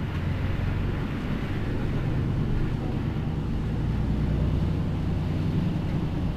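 MAN Lion's City G articulated city bus's engine running steadily under way, a low drone.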